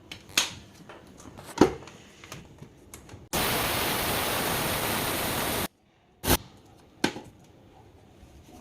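Electric mixer grinder running for a little over two seconds, grinding sago pearls into coarse flour; it starts and cuts off suddenly. A few sharp clicks and knocks of the jar and lid come before and after it.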